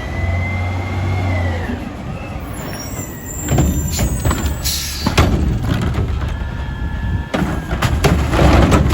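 Autocar ACX garbage truck with a McNeilus Curotto Can body working at a stop: the diesel engine runs under a high whine. A brief high squeal follows, then a short air-brake hiss about five seconds in and a series of metal clanks and bangs.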